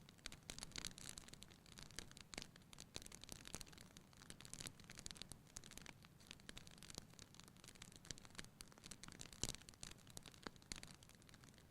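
Fire burning in a fireplace, crackling with a steady scatter of small pops; the sharpest pop comes about three quarters of the way through.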